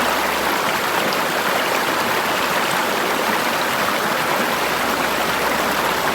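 Forest river water flowing over rocks in a steady, even rush.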